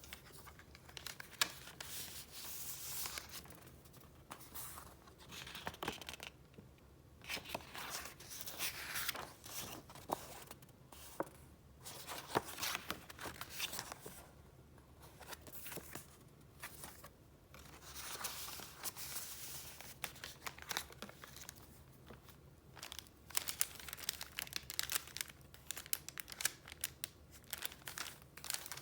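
Paper being handled, rustling and crinkling in repeated bursts with short pauses between them, with sharp crackles here and there.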